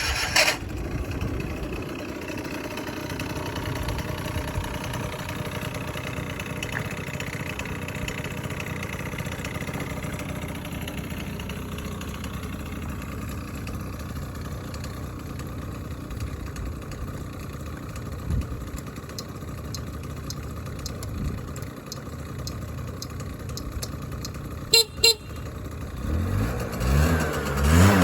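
Yamaha Super Jog ZR 50cc two-stroke scooter engine starting up and idling steadily. Two sharp knocks come about 25 seconds in, then the throttle is blipped a few times near the end, the engine note rising and falling.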